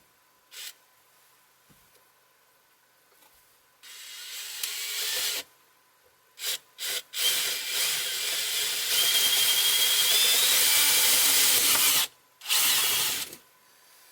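Handheld power tool running into wood in several bursts: one that builds up, a few short blips, a long steady run of about four seconds, and a last short burst near the end.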